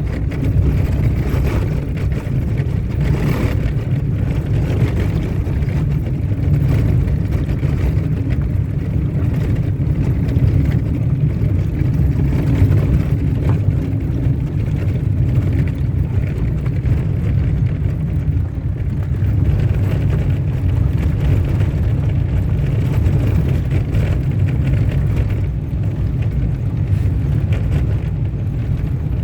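Car driving along a dirt road: a steady low rumble of engine and tyres on the unpaved surface.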